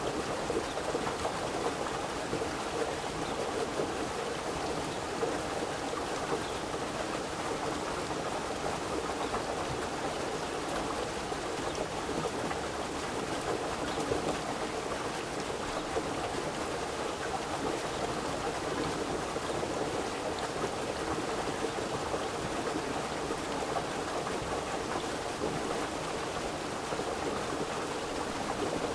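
A river running steadily, an even rush of flowing water with a dense bubbling texture and no breaks or single splashes.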